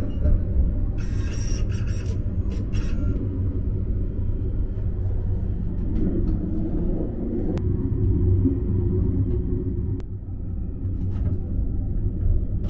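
Steady low rumble of a moving sleeper train, heard from inside its small shower compartment. A short run of light rattles comes a second or so in, and a few single sharp clicks come later.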